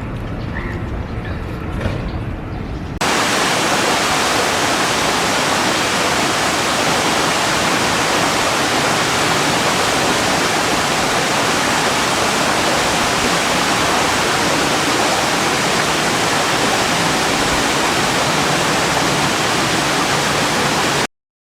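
Steady, even rushing of water, starting suddenly about three seconds in after a low rumble, and cutting off abruptly near the end.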